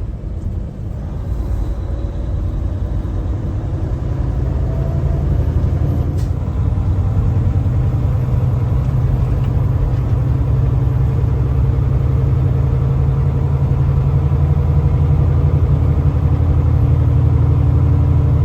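A 2024 Kenworth T680 semi truck's diesel engine and road noise heard from inside the cab: a steady low rumble that grows gradually louder as the truck gets under way, with a single faint click about six seconds in.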